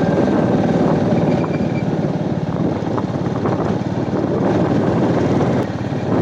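Royal Enfield Meteor 350's single-cylinder engine running steadily on the move, with a fast, even pulse under the road and air noise. The loudness dips briefly near the end.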